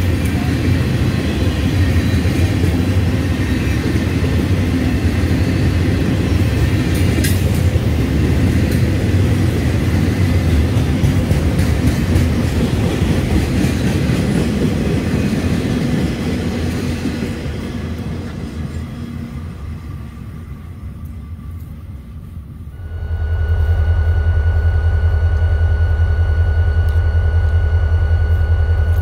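Freight train's rail cars rumbling past on the track, fading as the train moves off. About three quarters of the way in, the sound cuts abruptly to a Florida East Coast diesel locomotive's engine running close by: a steady low drone with a steady high whine over it.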